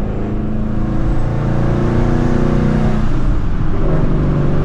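Procharged Shelby GT350's 5.2-litre flat-plane-crank V8 running steadily while cruising; its note breaks briefly about three seconds in, then settles back to a steady drone.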